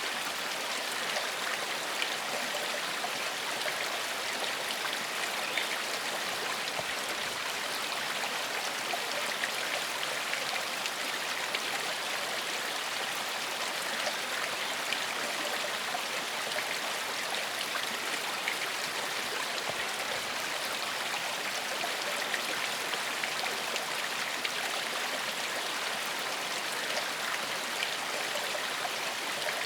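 Gentle forest stream flowing steadily, an even rush of water with small splashes and trickles throughout.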